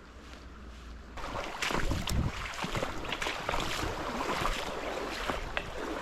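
Fast stream water rushing over rocks, louder from about a second in, with repeated splashing from wading through the shallow fast water.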